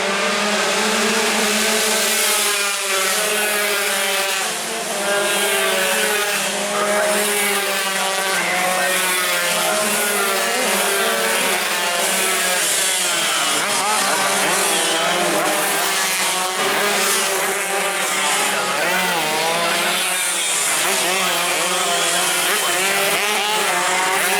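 A pack of tuned two-stroke sport motorcycles racing at high revs. Many engine pitches overlap, each rising and falling as the riders accelerate, shift and pass.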